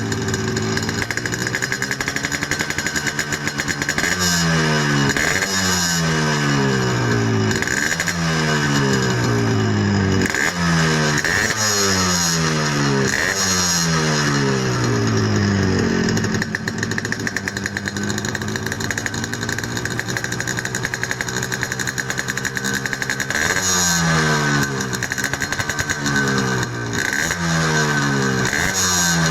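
Yamaha RX-King's single-cylinder two-stroke engine through a hollowed-out (bobokan) exhaust, blipped over and over, each rev rising sharply and dropping back. Between the blips it settles to idle for several seconds in the middle, then is blipped again near the end.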